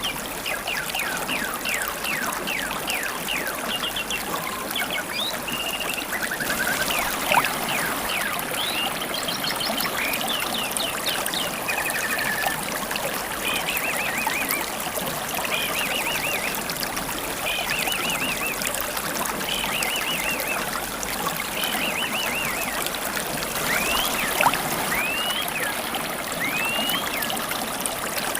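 Steady babble of a flowing river stream, with wild birds chirping and trilling over it; near the end a bird repeats short rising whistled notes.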